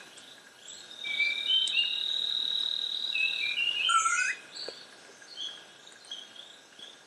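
Rainforest birds calling: several short whistles and chirps and one long, steady, high whistle, over a faint steady insect drone. The calls thin out after about four seconds.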